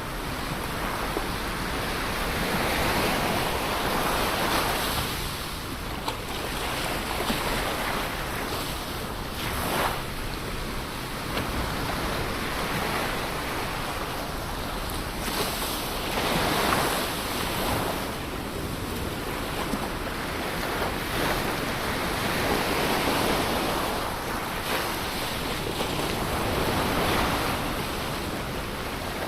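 Ocean waves breaking and washing on the shore, a continuous surf that swells and falls back every few seconds.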